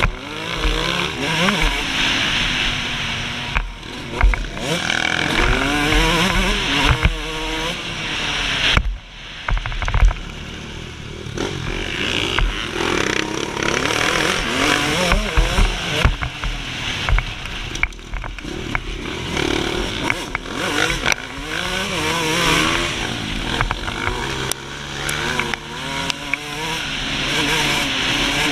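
A 2003 Suzuki RM125's 125cc two-stroke single-cylinder engine revving hard, its pitch climbing and dropping again and again through the gears and on and off the throttle, with a short lull about nine seconds in.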